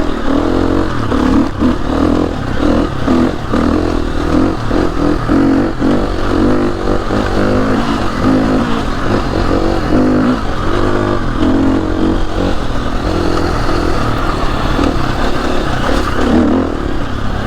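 KTM 350 EXC-F's single-cylinder four-stroke engine running as the trail bike is ridden along, the revs rising and falling.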